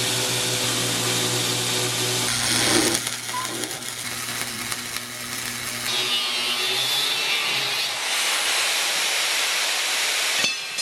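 Power tools running during metalworking: a steady motor hum with a grinding hiss that changes sharply about two and a half seconds and six seconds in.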